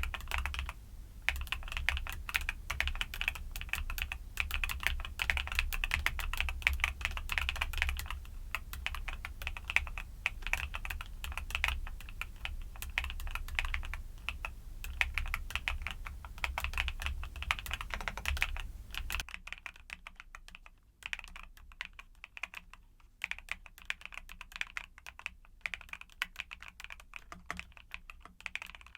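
Continuous fast typing on a mechanical keyboard with YUNZII Cocoa Cream switches, a dense run of key clacks. About two-thirds of the way through, a low background hum cuts out and the keystrokes become softer and more spread out.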